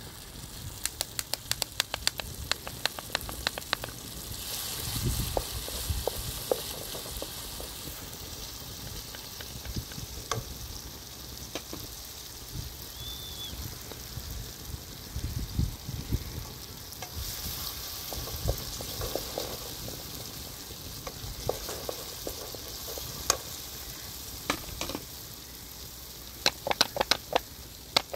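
Food sizzling as it fries, with quick runs of sharp taps from about a second to four seconds in and again near the end.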